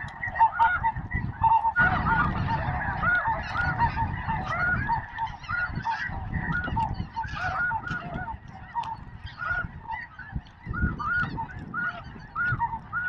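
A flock of snow geese calling, many short, high honks overlapping without pause, over a low rumble.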